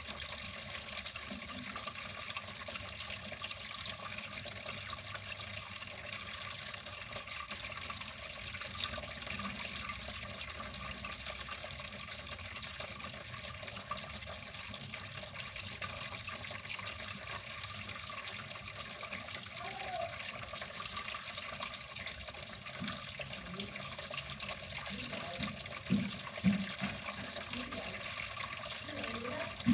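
Steady rush of running water. Near the end, a few short, louder low-pitched sounds break in over it.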